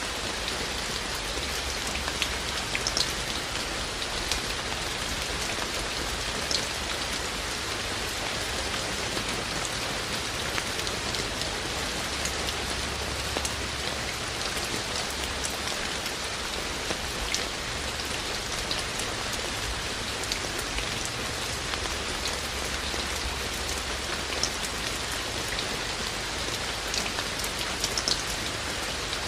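Steady rain falling, a constant hiss with scattered sharper drip ticks of drops landing on hard surfaces.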